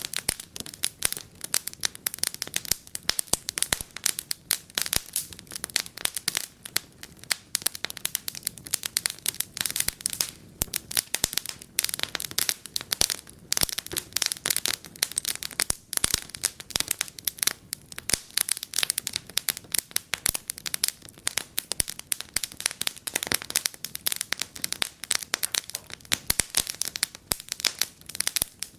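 Wood fire crackling in a fireplace, with a steady stream of irregular sharp pops and snaps over a soft hiss.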